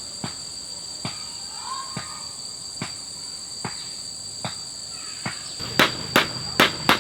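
Sharp hammer blows, about one every 0.8 s, turning louder and quicker, about two a second, near the end, as the wall is being fixed in place. A steady high insect trill, from crickets or cicadas, runs underneath.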